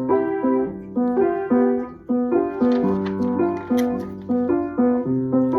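Piano playing a simple melody with accompanying notes, a steady run of separate struck notes.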